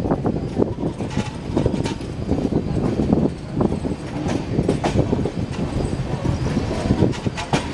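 Passenger express train running over points and rail joints, heard from aboard: steady wheel rumble with irregular clattering knocks from the wheels crossing the track.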